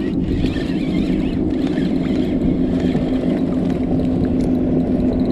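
Boat motor running steadily, a constant hum over low rumbling noise.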